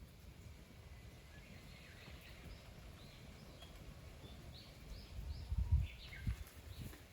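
Small birds chirping in short, repeated calls, over a low rumble that swells louder about five to six seconds in.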